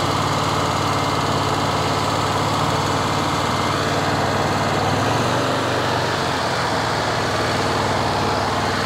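Wood-Mizer portable bandsaw mill's engine running steadily under load while its band blade saws lengthwise through a walnut log.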